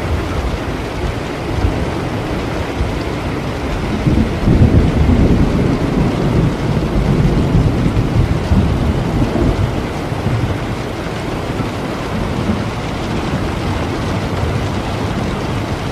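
Steady heavy rain with a long, low roll of thunder that builds about four seconds in, rumbles for several seconds, then fades back under the rain.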